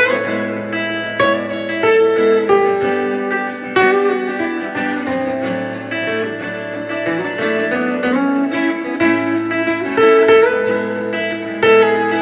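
Acoustic guitars playing an instrumental break between sung verses: picked lead notes, some bent, over strummed chords.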